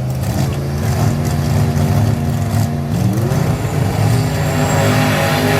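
Drag-race car engine running steadily near idle, with one rising rev about three seconds in.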